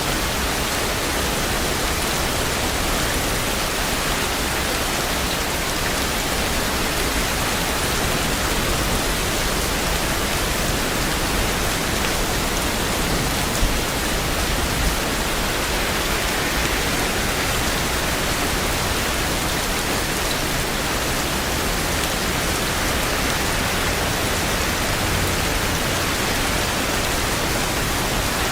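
Steady rain falling: a dense, even hiss of rain with a couple of faint drop ticks about halfway through.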